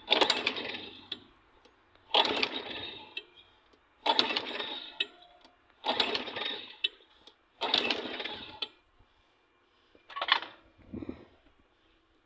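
Small primer-fed engine being cranked over again and again without starting: five strong turns about two seconds apart, then two weaker ones near the end. It never fires.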